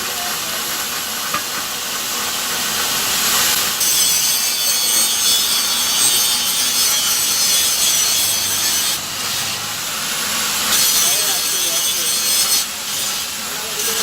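Harsh, steady rasping of a tool cutting or abrading metal, in long stretches of a few seconds that grow louder about four seconds in and again near eleven seconds.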